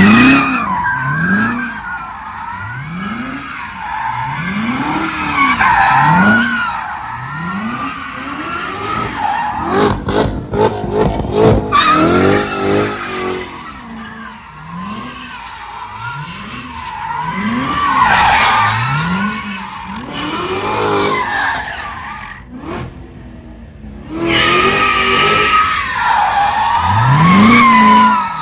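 Car doing a tire-squealing stunt: the engine revs up and drops in repeated surges about every two seconds while the tires squeal continuously. A run of sharp pops sounds about ten seconds in.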